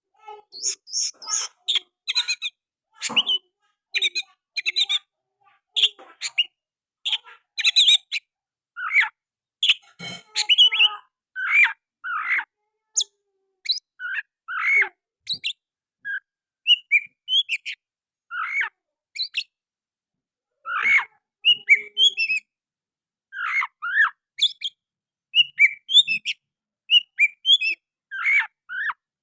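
Oriental magpie-robin singing a long run of varied, quick whistles and chirps in short phrases with brief pauses, its song laced with mimicked sooty-headed bulbul calls.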